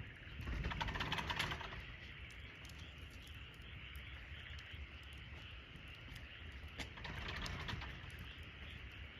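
Wood campfire crackling, with scattered small pops and two louder flurries of crackling, one about a second in and one around seven seconds. A steady high chirring, like insects, runs behind it.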